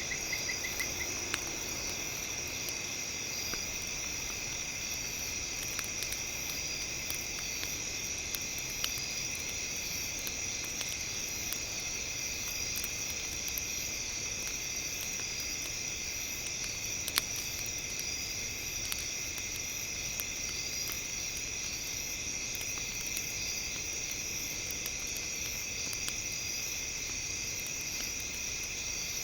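Campfire crackling with scattered small pops and one sharper pop about 17 seconds in, over a steady high chorus of night insects such as crickets.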